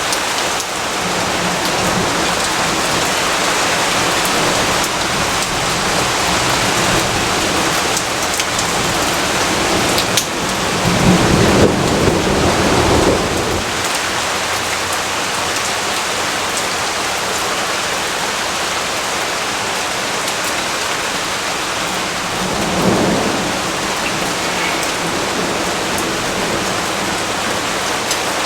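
Steady heavy rain falling, with a low rumble of thunder swelling and fading about a third of the way in and a shorter, fainter rumble later.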